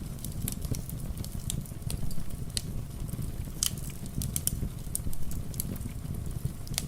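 Wood fire crackling, with irregular sharp pops over a steady low rumble, and rain patter mixed in.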